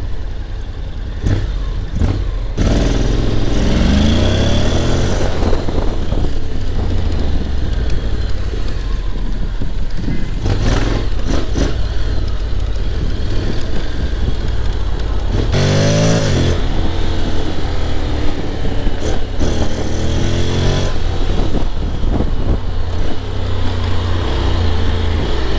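Honda X-ADV 750's parallel-twin engine accelerating under load. Its pitch rises in pulls about three, sixteen and nineteen seconds in, dropping back as the DCT gearbox shifts up.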